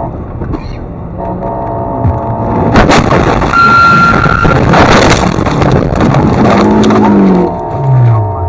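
Loud road-vehicle noise: a sudden bang about three seconds in, then several seconds of loud rushing noise with a short steady tone partway through, easing off near the end.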